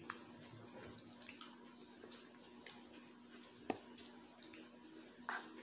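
Faint wet mouth clicks and smacks of a person chewing food. About three and a half seconds in, a single sharp click comes as a fork spears a boiled egg on a metal plate.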